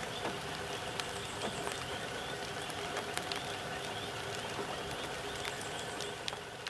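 Steady outdoor background noise with many faint short chirps or clicks scattered through it, fading out at the very end.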